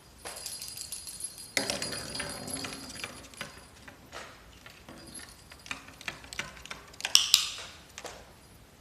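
Small metal object jingling and clinking, with high ringing tones that hang on after the strikes. The clinks come in irregular clusters, loudest about seven seconds in.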